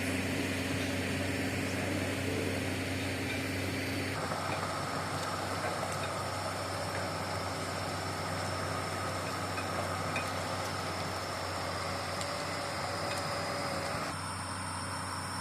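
Excavator's diesel engine running steadily as the machine travels on its tracks, a continuous drone with a constant low hum. The sound shifts abruptly about four seconds in and again near the end.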